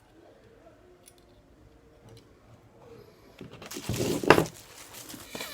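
Welding cable and its clamp being handled: a few faint clicks, then about three and a half seconds in a second or so of louder clattering and rustling of metal and cable.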